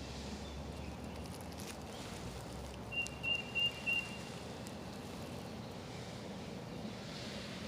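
A bird calls about three seconds in with a quick run of three or four short high notes on one pitch, over steady outdoor background noise.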